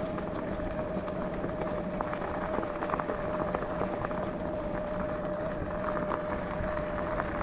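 E-bike motor whining at a steady pitch while the tyres roll with a rough, crackling noise and small scattered clicks from the track surface.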